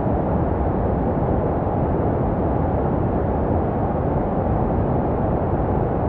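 Steady, deep, even baby-sleep white noise with little treble and no rhythm or changes, made to sound like the noise a baby hears inside the womb.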